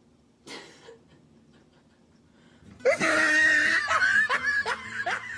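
A woman's startled high-pitched cry at being frightened by someone in a sheet face mask, breaking into laughter in short falling bursts, about three a second.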